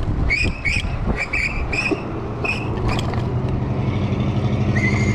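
A run of short, high-pitched squeaks, about eight in three seconds, then a steady high whine from near the end, over a steady low motor hum.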